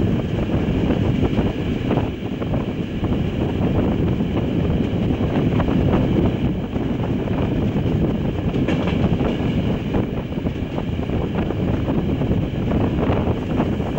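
Regional passenger train running along the line: a steady rumble of wheels on the rails, with wind rushing past the microphone at the carriage window. Occasional faint clicks come from the track.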